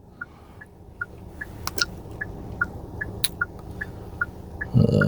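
Car interior with a quiet low road and engine rumble and a steady, even ticking about two to three times a second, typical of a car's turn-signal indicator. Near the end a short low murmur of a man's voice comes in.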